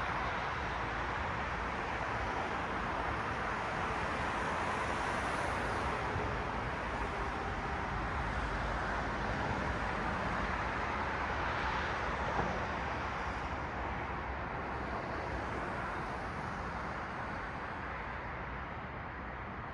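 Road traffic: cars passing with a steady tyre-and-engine hiss that swells and eases as vehicles go by, fading slowly near the end.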